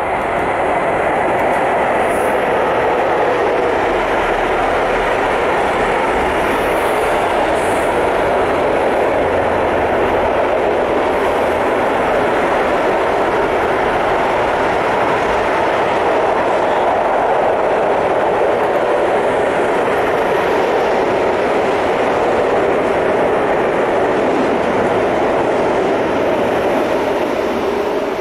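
Long intermodal freight train, hauled by two Class 186 electric locomotives, rolling past with a steady, loud rumble of wagon wheels on the rails.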